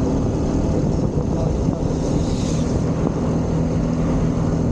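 Motorcycle riding at a steady speed: the engine runs evenly under wind buffeting the microphone.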